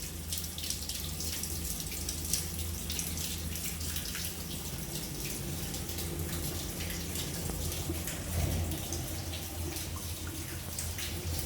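Water running out of a freshly flushed water pipe and splashing, with a steady low hum underneath, at the final flushing stage of a rust-removal pipe cleaning when the water has begun to run clear.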